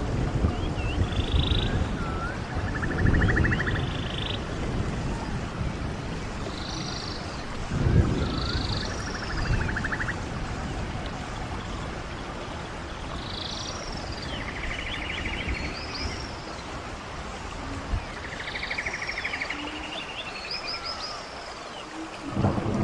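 Running stream water with birds calling over it: short buzzy trills and chirps repeated every few seconds. The water swells louder near the start and again about eight seconds in.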